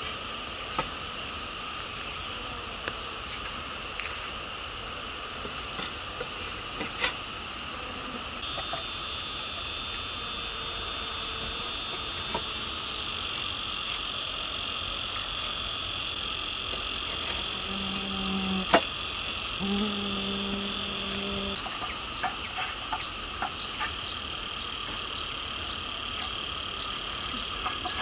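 A steady chorus of crickets and other insects, with scattered light clicks and knocks. About two thirds of the way through come two short low-pitched tones.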